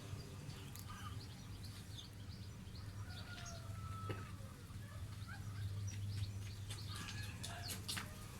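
Small birds chirping and whistling in short scattered calls over a steady low background hum.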